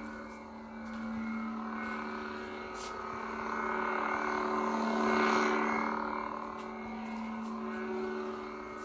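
SaberForge lightsaber playing its Viridian dark-side sound font: a steady electric hum, swelling into a swing sound about five seconds in and settling back.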